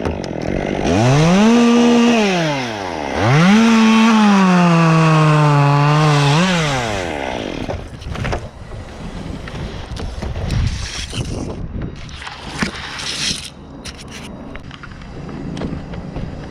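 Chainsaw revved up twice, its engine pitch dropping during the second long run as it cuts into the Canary Island pine's wood, then falling back off. After that come scattered knocks and cracks over a low steady engine hum.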